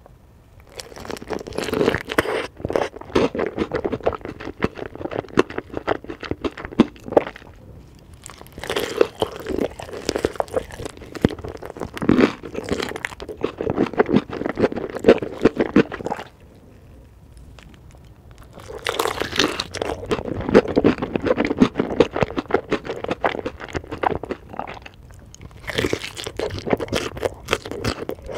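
Close-miked crunching and chewing of chicken in four long bouts of dense crackles, broken by short pauses.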